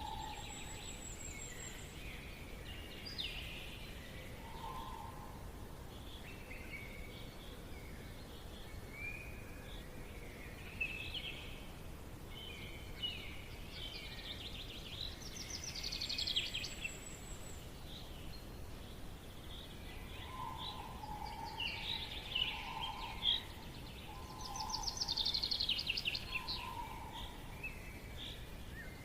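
Forest birds singing and chirping, several voices overlapping, with a fast trill about halfway through and another near the end, and a lower call repeated four times in the second half, over a steady faint background hiss.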